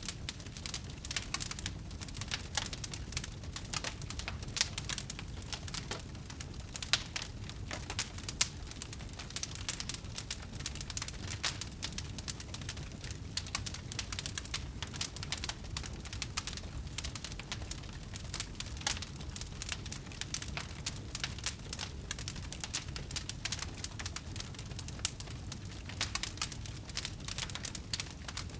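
Campfire crackling steadily, with dense sharp pops and snaps over a low rumble of the burning fire, a few louder pops standing out.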